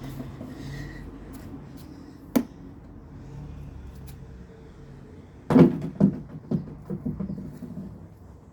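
A basketball knocks once a little over two seconds in. About five and a half seconds in it strikes the floor hard and bounces several more times, each bounce fainter and quicker than the last as the ball settles.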